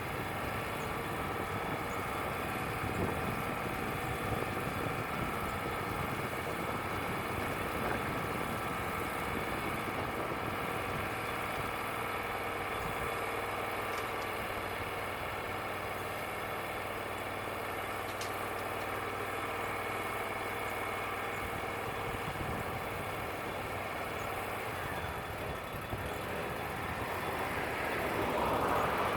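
Engine of a Wood-Mizer LT35 portable bandsaw mill running steadily.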